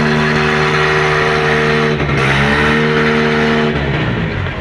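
Tractor engine held at high revs under heavy pulling load, a loud steady drone. It dips briefly about two seconds in, and the revs drop away near the end.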